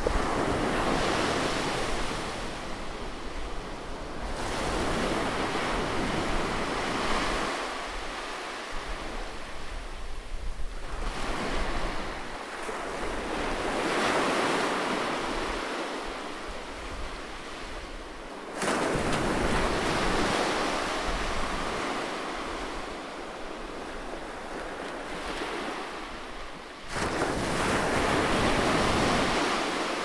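Ocean surf breaking over rocks: a rush of white water that swells and fades in surges every few seconds.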